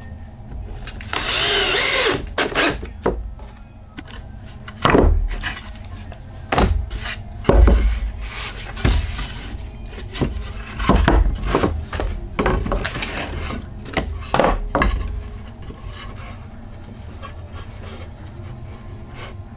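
A cordless drill or driver runs briefly, its pitch wavering, then pieces of pallet wood are knocked and set down in a series of irregular knocks and thuds.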